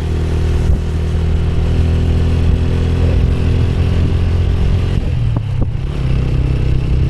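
Motorcycle engine running steadily on the move, its note shifting about five seconds in, with a couple of short knocks around then.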